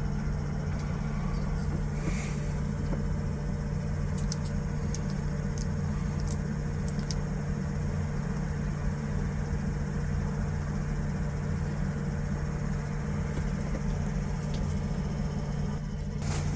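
A motor vehicle running steadily, with a constant low engine and road rumble and a steady hum.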